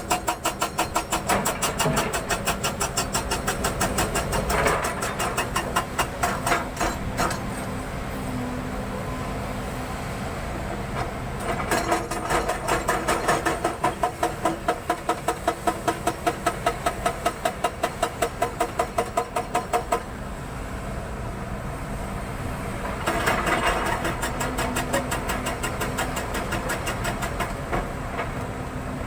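An engine running with a regular pulsing beat, about three beats a second. The beat fades out partway through and returns.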